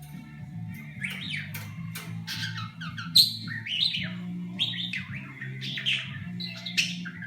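Budgerigar chattering in quick warbling whistles, chirps and clicks that sweep up and down in pitch like R2D2's beeps, starting about a second in.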